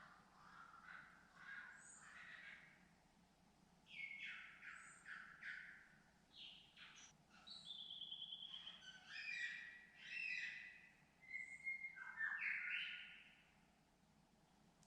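Birds calling in a varied run of whistles, chirps and short trills, one call type after another, louder and busier in the second half.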